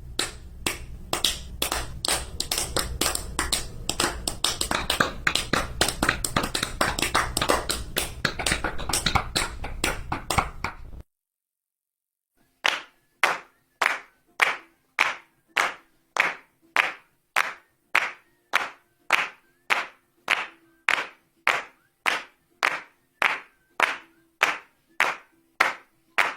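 Applause: many hands clapping densely and irregularly for about eleven seconds, cut off abruptly. After a short gap comes a slow, evenly paced clap, about two claps a second.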